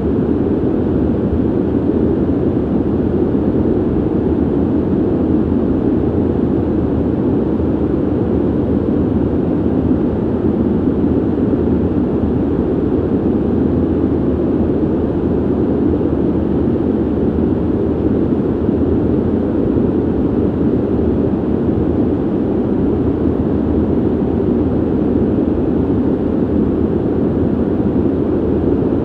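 Steady ventilation noise: an even, unbroken rush of air, deep and muffled, with little hiss on top.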